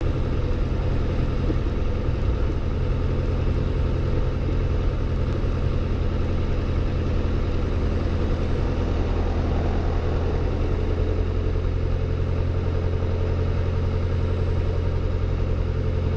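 Robin DR400-120's four-cylinder Lycoming piston engine running steadily at low power on the ground, heard from inside the cabin.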